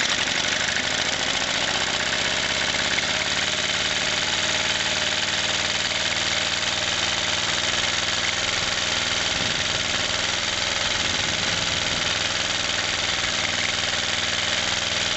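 1963 Briggs & Stratton single-cylinder engine running steadily and evenly, freshly fired up on a little choke.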